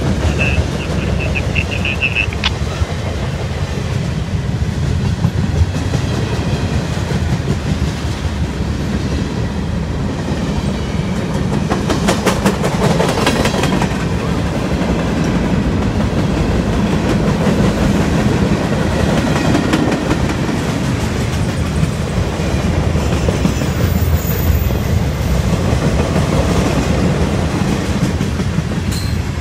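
CSX freight train Q410's cars rolling past close by: a steady low rumble of steel wheels on the rails with clickety-clack over the rail joints, clattering hardest about halfway through. A high thin broken tone sounds during the first two seconds.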